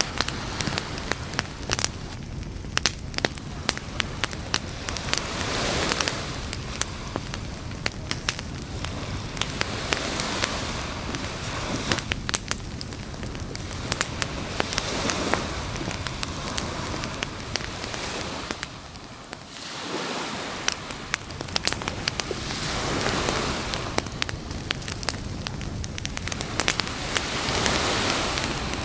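Campfire crackling with frequent sharp pops, over a steady hiss of surf that swells and fades every few seconds as waves wash in.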